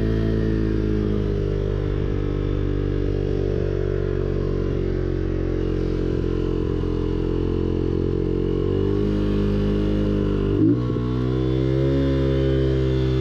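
Motorcycle engine running at a steady speed. Its pitch climbs about nine seconds in, then breaks sharply about ten and a half seconds in, like a gear change, before it settles and climbs again.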